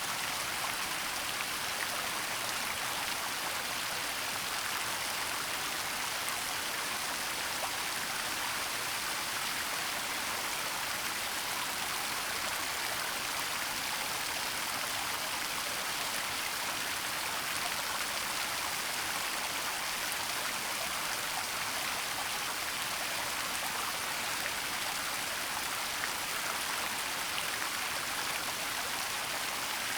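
Waterfall rushing: a steady, even hiss of falling water with no changes.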